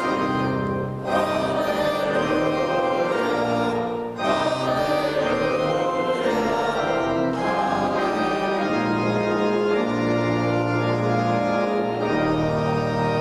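Organ playing, with voices singing a hymn over it. There are short breaks between phrases about one and four seconds in.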